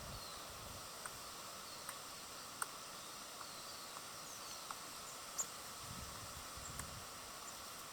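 Outdoor ambience at a bird feeder: a steady hiss with a few faint, short, high chirps from small birds and scattered sharp ticks, plus soft low rumbles about six seconds in.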